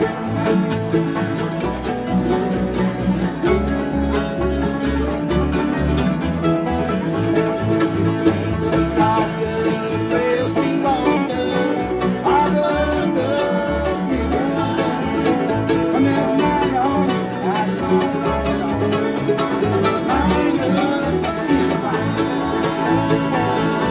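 Bluegrass jam: banjo and guitar playing an up-tempo tune over a steady bass beat, with sliding melody notes in the middle and again near the end.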